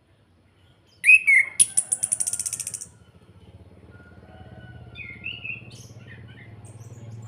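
Chestnut-capped thrush (anis kembang) singing: a short whistled note about a second in, then straight into a fast, rattling crackle (the 'kretekan') lasting about a second, and another short whistled phrase a few seconds later. A low steady hum runs underneath.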